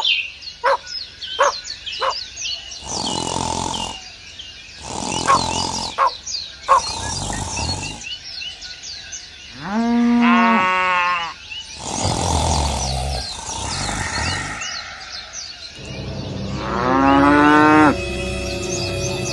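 Farm ambience: small birds chirping throughout, and a cow mooing twice in long, drawn-out calls, once about halfway through and again near the end.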